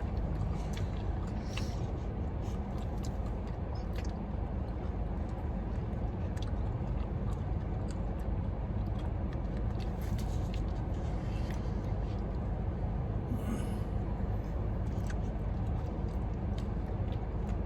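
Steady low rumble of a car, with scattered faint clicks and eating sounds.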